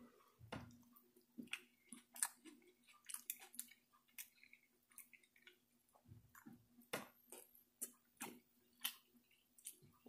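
Close chewing of a mouthful of green beans, with irregular sharp wet mouth clicks and smacks. A faint steady low hum runs underneath.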